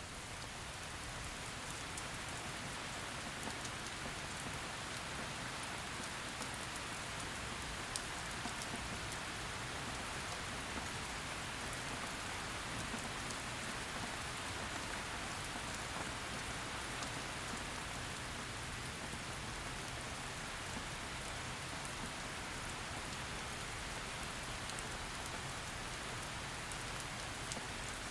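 Heavy rain falling steadily on a surface, a dense even hiss with scattered individual drop ticks.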